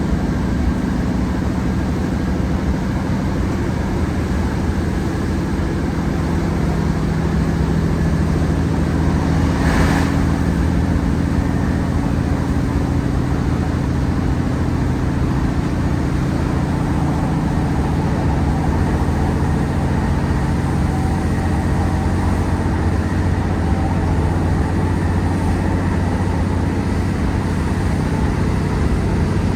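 Class 150 diesel multiple unit's underfloor Cummins diesel engine working hard as the train pulls away, a steady, heavy drone. About ten seconds in there is one brief, sharp noise.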